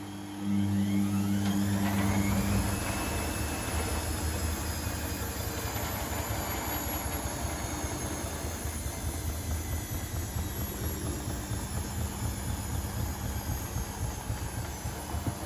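Privileg Sensation 952 S top-loading washing machine running: about half a second in its motor starts up loudly with a whine that rises for about two seconds, then runs on with a steady rumble and a slowly falling whine.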